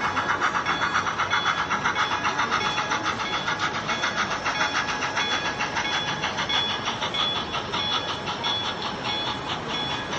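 Model train running: an even rhythmic clicking pulse, about five beats a second, slowly growing fainter.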